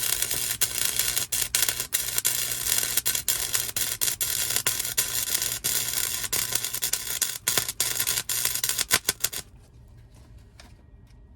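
Welding arc on sheet-steel floor pans, a steady sizzling crackle broken by many brief dropouts, which stops about nine and a half seconds in. It is a run the welder judges a good one.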